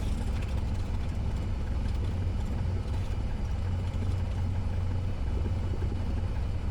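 Cessna 172S's four-cylinder Lycoming engine running steadily at low power in the cabin, a constant low hum, during the rollout and taxi after landing.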